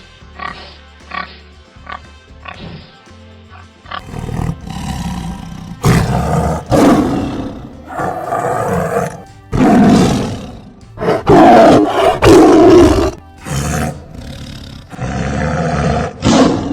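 A large animal roaring in a series of loud, long, rough calls, starting about four seconds in, after a few seconds of shorter, quieter repeated calls. Music plays underneath.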